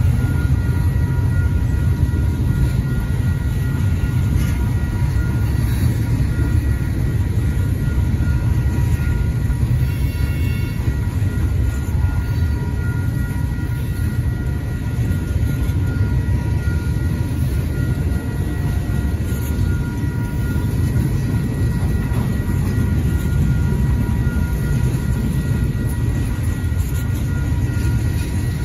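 Freight train of tank cars rolling past a grade crossing: a steady, heavy rumble of wheels on rail. Over it, the crossing bell rings in rapid, even strokes.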